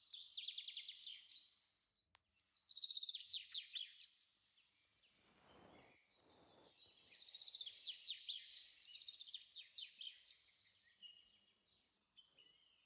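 Faint bird chirping in quick repeated trills, coming in several bursts. There is a brief soft rustle about halfway through.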